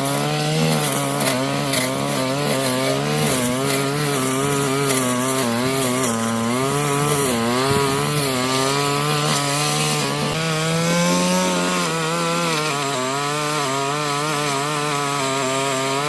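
Tasco 328 two-stroke brush cutter engine running at high speed while cutting grass, its pitch wavering up and down as the load changes, rising briefly about eleven seconds in.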